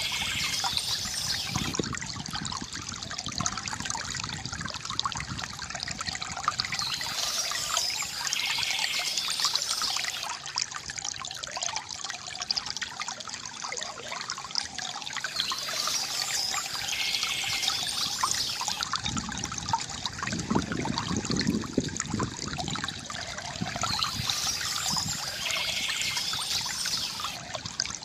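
Small stream trickling and gurgling, with a bout of birdsong that comes back about every eight seconds.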